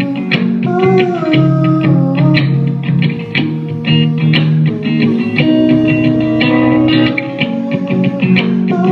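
Live rock band playing an instrumental passage: electric guitars with effects, bass and drums, a guitar line sliding between notes over a steady beat.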